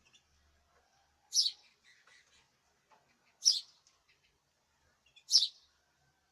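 Caged male songbird giving three loud, short, high calls about two seconds apart, with faint softer chirps between.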